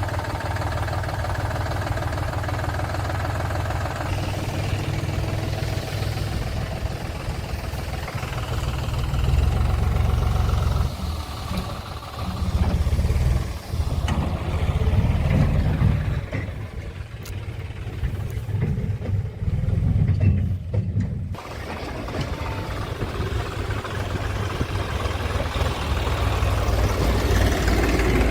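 Diesel engine of heavy machinery running: steady at first, then rising and falling in louder surges for about twelve seconds from around nine seconds in, before settling back to an even drone.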